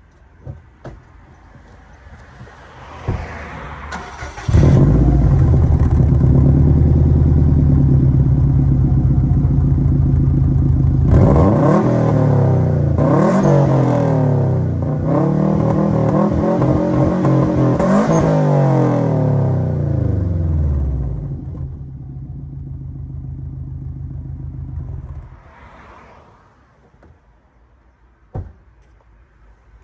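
2008 Subaru Impreza WRX STI's turbocharged 2.5-litre flat-four, on its stock exhaust, started after a few clicks and running at a steady high idle, then revved several times, each rev rising and falling. It drops back to a quieter idle and is switched off near the end.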